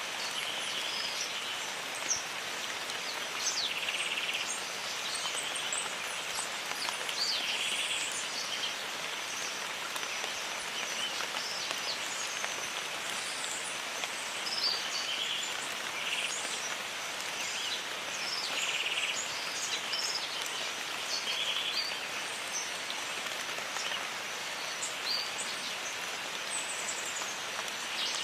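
Jungle rain ambience: steady rain with birds chirping, and a short call near the same pitch repeating every couple of seconds.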